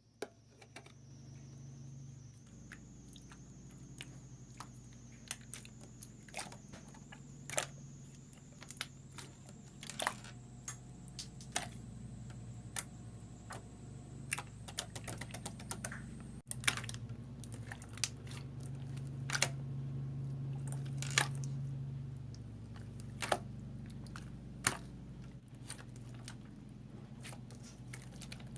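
Slime being squeezed and poked by hand, giving irregular sharp clicks and pops from trapped air, over a steady low hum.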